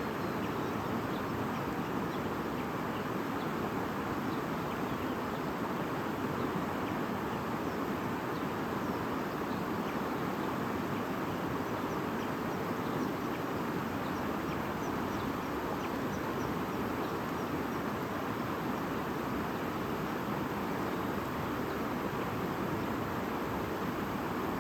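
Stream babbling steadily, with faint, brief high chirps scattered through it.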